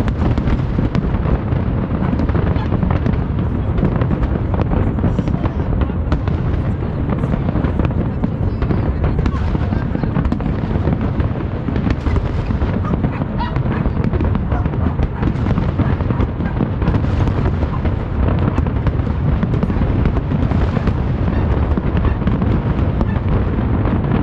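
Aerial fireworks going off in a dense, continuous barrage: many overlapping booms of bursting shells with crackling between them.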